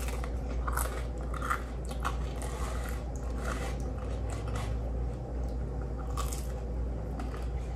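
A person biting and chewing pizza crust close to the microphone, with small crisp crunches every second or so.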